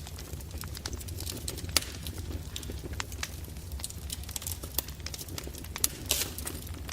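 Wood fire crackling: irregular sharp pops and snaps over a low steady rumble of the flames, with a cluster of louder crackles near the end.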